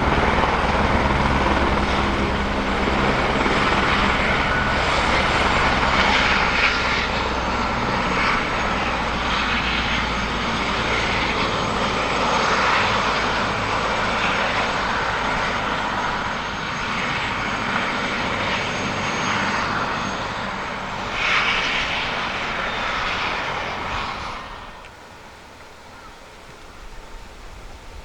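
Eurocopter AS350B3 Écureuil helicopter running, its single turboshaft engine and rotor close by: a steady rotor beat under a thin high turbine whine. The noise drops off sharply about 24 seconds in, leaving only a much fainter sound.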